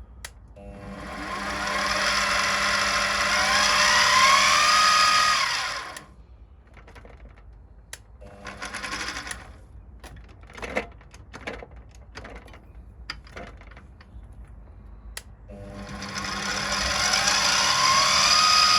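Small milling machine's spindle motor spinning up with a rising whine, holding speed briefly, then shutting off about six seconds in. A few clicks and knocks follow, then the spindle spins up again with the same rising whine near the end. The speed-range lever has just been moved, and the run is a check of which range the mill is in.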